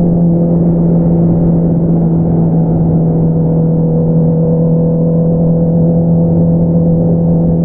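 A Honda CBR650R's inline-four engine running through an Akrapovič exhaust at a steady speed, its note holding one even pitch with no revving.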